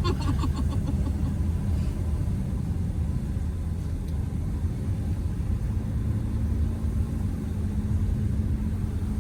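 Steady low rumble of a car's engine and tyres, heard from inside the cabin as it climbs a winding mountain road, with a faint steady hum over it.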